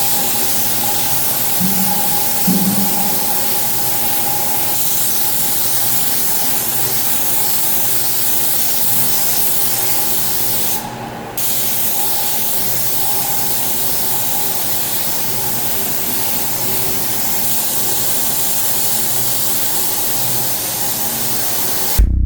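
A steady spraying hiss, with a faint steady tone and low hum under it. It breaks off briefly about halfway through, then carries on.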